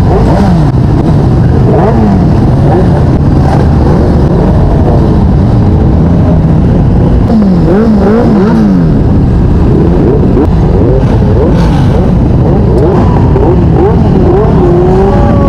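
Motorcycle engines revved over and over, their pitch rising and falling in quick runs over a dense, loud exhaust rumble, with more than one engine sounding at once.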